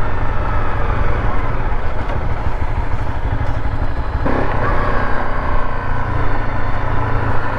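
Honda CRF 250L single-cylinder motorcycle engine running while riding, with heavy wind rumble on the helmet microphone. The engine note picks up and rises slightly about four seconds in.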